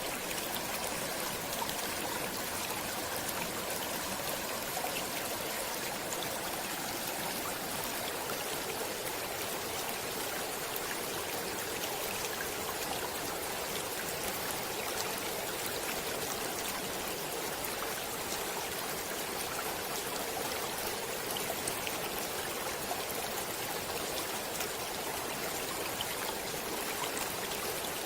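Stream water running steadily, a continuous hiss and splash with little low rumble.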